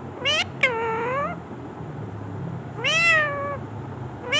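Parrot mimicking a cat's meow. A short call is followed by a longer meow that dips and rises again, and about three seconds in comes a meow that rises and falls; another begins at the very end.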